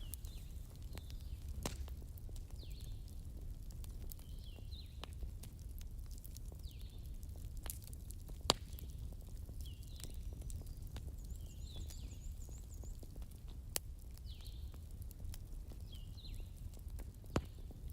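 Campfire burning with a steady low rumble and occasional sharp wood pops, four of them standing out. Faint short high chirps repeat every second or two in the background.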